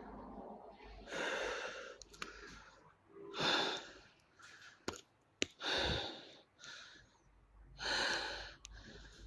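A person breathing heavily: long, audible breaths in and out about every two seconds. There are two sharp clicks around the middle.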